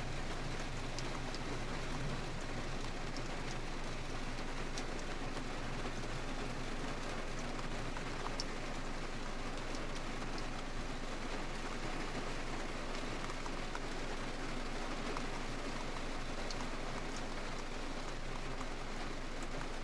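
Heavy rain pouring steadily, with scattered close drops ticking.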